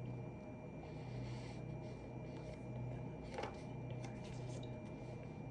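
Soft scratching and rustling of desk work, typical of a pen on paper and handled papers, with one sharper click about three and a half seconds in, over a steady low hum.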